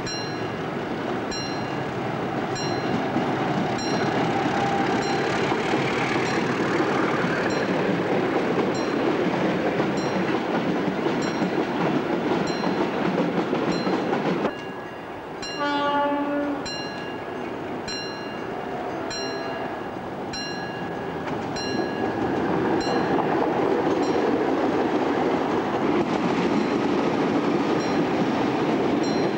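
Diesel-hauled train rumbling past on the rails, with a level-crossing warning bell dinging at a steady quick beat. A short horn blast sounds about halfway through.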